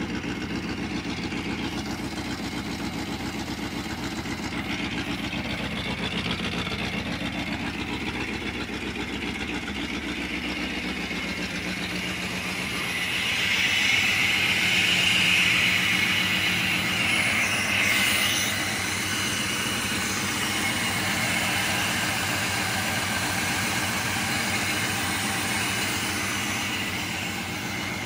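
1984 Corvette C4's V8, fitted with a hot cam and still on the stock exhaust, running at a steady idle. About halfway through it gets louder for several seconds, with a hissing edge, then settles back to the idle.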